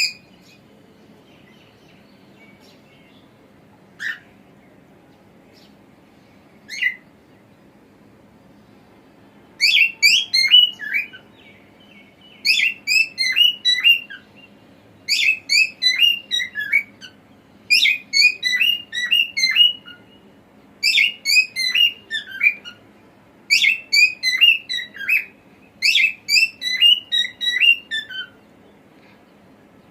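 Cockatiel singing: two single short calls in the first several seconds, then a run of repeated warbling phrases of quick chirps and whistles, one every couple of seconds.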